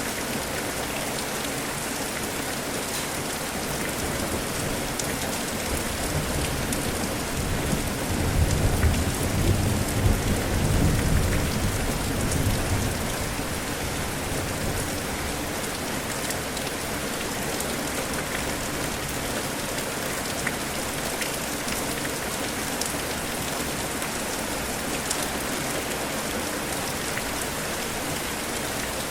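Steady rain falling, an even hiss of drops, with a low rumble of thunder that swells about a quarter of the way in and dies away a few seconds later.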